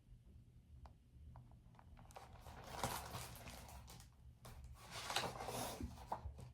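Faint paper rustling of a picture book's page being turned and handled, coming in uneven swells from about two seconds in, after a few small clicks.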